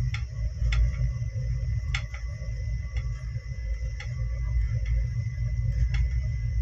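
Sampark Kranti Express coach running along the track, heard from inside: a steady low rumble with sharp clicks of the wheels on the rails about once a second, and a faint steady high tone.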